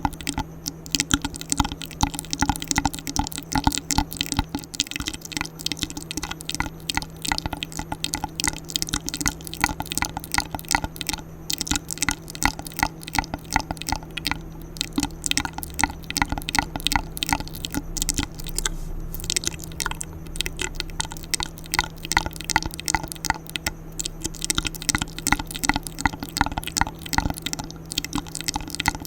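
ASMR mouth sounds: rapid wet clicks and smacks made close to the microphone, several a second without a break.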